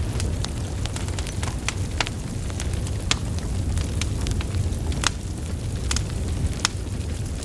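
Wood fire burning logs: a steady low rumble of flames with irregular sharp crackles and pops, a few louder snaps about three, five and six and a half seconds in.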